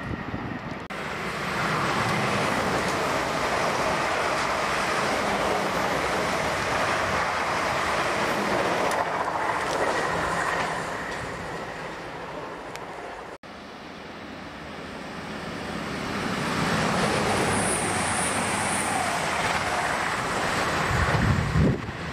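Steady rumbling rail noise of a train on the line that fades away, then, after a break, another train approaching and growing louder towards the end.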